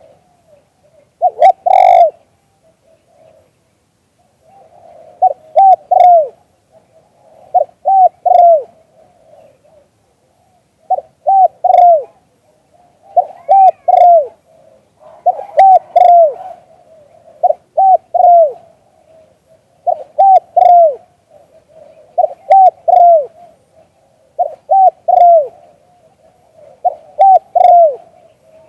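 Zebra dove cooing: short phrases of a few quick, clipped notes, each ending with a downward slur, repeated about every two seconds.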